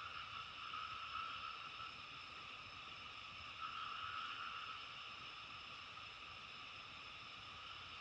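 A faint, steady chorus of many distant calling animals, made of several constant high-pitched layers. It swells a little about a second in and again around four seconds in.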